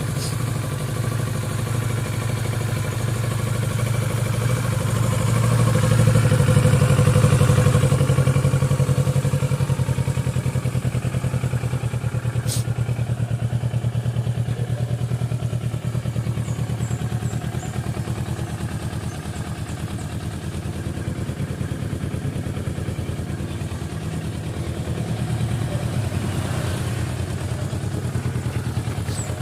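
Kawasaki Versys 650's parallel-twin engine idling cold after a cold start. It runs a little louder about six to eight seconds in, then settles to a steady idle. There is one sharp click about twelve seconds in.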